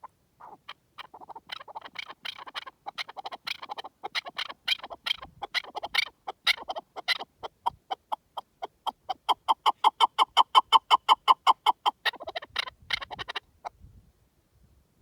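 Partridge calling: a long series of short, sharp clucking notes, crowded and uneven at first, then settling into an even run of about four notes a second that is the loudest part, before breaking into quicker ragged notes and stopping near the end.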